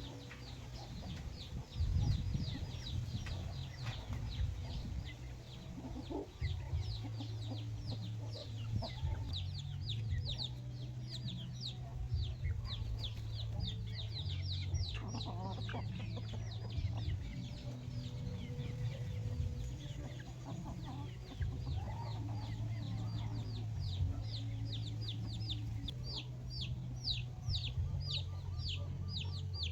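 A flock of free-range chickens, hens clucking on and off among a fast, continuous run of high, short, falling peeps from chicks. A steady low hum runs underneath.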